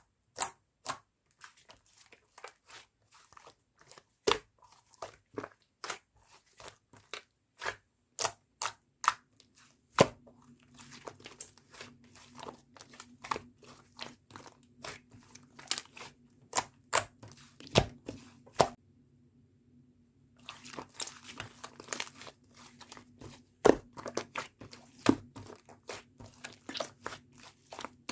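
Yogurt slime being pressed and worked by hand, giving an irregular stream of sharp crackling clicks and pops, several a second. About a third of the way in, a faint steady low hum starts underneath.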